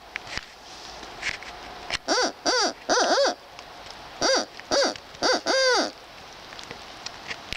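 Owl-like hooting: two runs of four short hoots, each rising and then falling in pitch, with the last hoot of the second run drawn out longer.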